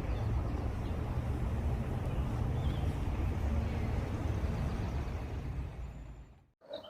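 Steady low rumble of outdoor background noise, like vehicle traffic, with a few faint high chirps. It fades away and cuts off shortly before the end, followed by a brief blip.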